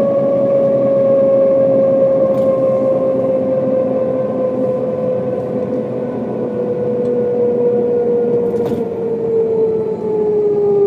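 Mercedes-Benz O407 bus driving, heard from the passenger compartment: a strong drivetrain whine that slowly falls in pitch over a steady engine and road rumble, with two brief rattles.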